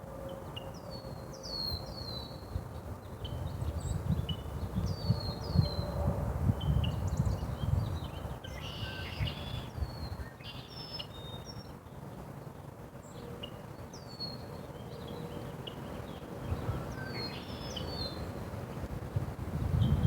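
Small birds chirping: short, sharply falling chirps, often in quick pairs, repeated every few seconds. Low rumbling noise on the microphone swells in the middle and again near the end.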